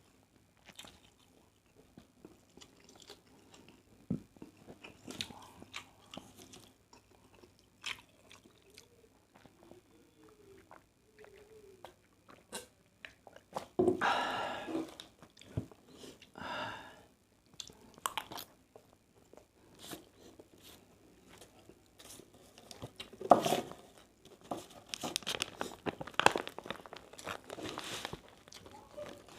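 Close-up chewing of fried rice, with crunchy bites and mouth noises; louder bursts come about halfway through and again toward the end, where the crunching grows busy.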